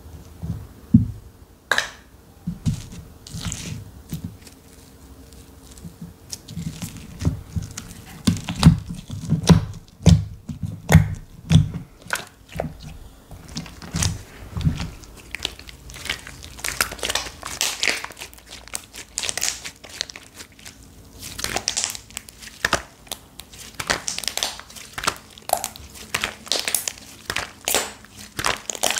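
Hands playing with slime: irregular low squishes and presses through the first half, then a run of crisp crackling and crinkling sounds.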